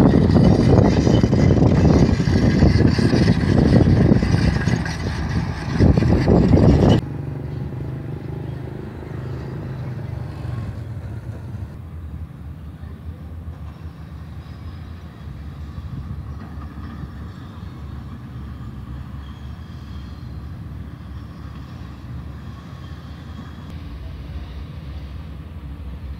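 Sany SR150C rotary drilling rig travelling on its crawler tracks, diesel engine running. It is loud and noisy for about the first seven seconds, then drops suddenly to a quieter, steady low engine drone.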